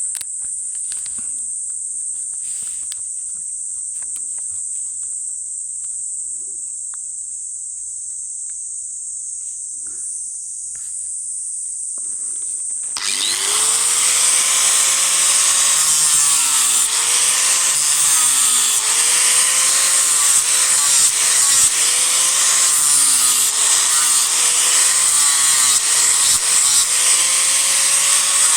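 Disc grinder running with a steady high whine, then, about halfway through, biting into a block of Japanese cedar: a loud rasping of wood being ground away, the motor's pitch sagging and recovering again and again as it is pressed into the cut.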